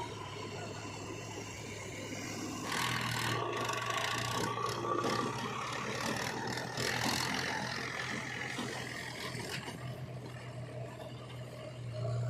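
Heavy diesel machinery running: a steady engine hum that grows louder about three seconds in, with rattling and a faint whine over it for several seconds before easing off.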